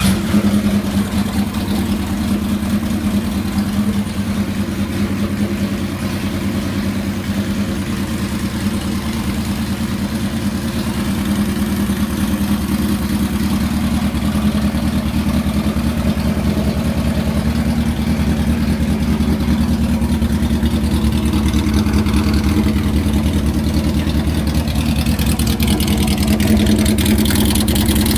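1976 Kawasaki KZ900's air-cooled inline-four engine running smoothly at idle, freshly started after a restoration. It gets a little louder over the last several seconds.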